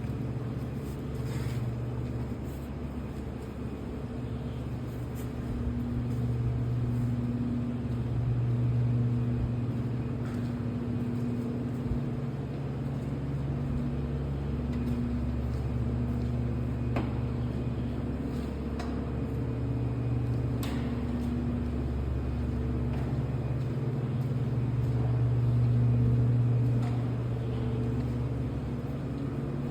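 An engine running steadily with a low hum that swells and fades, with a few light clicks over it.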